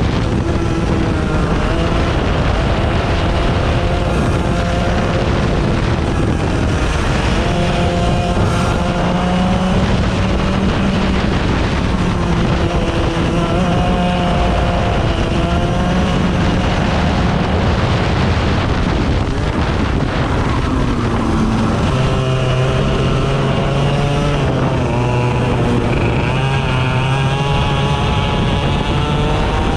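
Small 100cc racing engines at full practice pace, revving up and dropping back again and again as they accelerate and back off. About two-thirds of the way in, a second, lower-pitched engine is heard running alongside.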